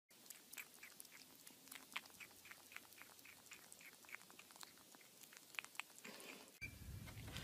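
A kitten chewing on the rim of a plastic bowl: faint, irregular little clicks of teeth on plastic, a few a second, stopping about six seconds in. A low hum starts near the end.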